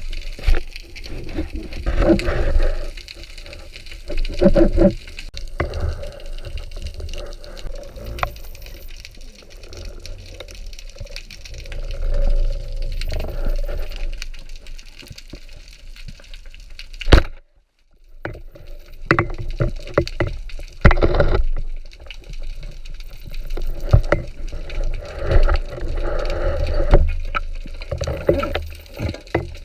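Water rushing and bubbling around an underwater camera during a spearfishing dive, in irregular surges with occasional knocks, cutting out briefly about 17 seconds in.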